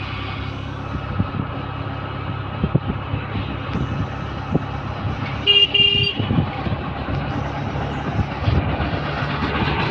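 Road vehicle engine running steadily, with a horn giving two short toots about five and a half seconds in.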